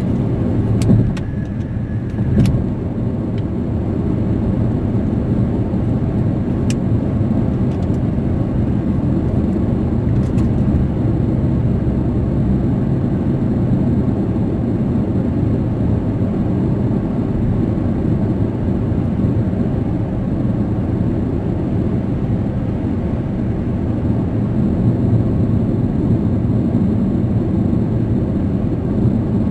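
Steady road and engine noise inside a car cruising at highway speed: a low, even rumble of tyres and engine, with a few short clicks in the first couple of seconds.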